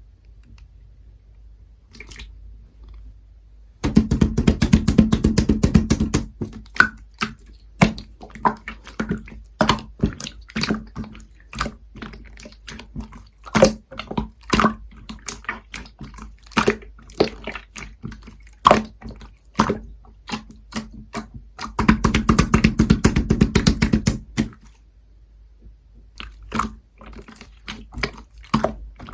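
Clear light-blue slime being squished and pressed by hand: sticky squelching and popping of trapped air, with two stretches of fast, dense crackling, one about four seconds in and one later on, and scattered pops and clicks between.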